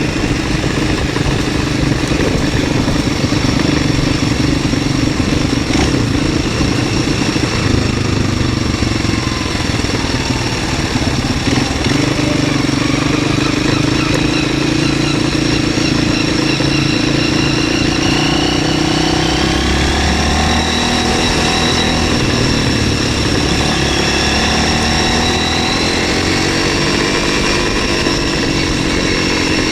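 MZ 125 SX motorcycle's 125 cc single-cylinder four-stroke engine running under way, heard from on board; the engine note holds fairly steady, then rises and falls with throttle and gear changes from about two-thirds of the way in, climbing again near the end.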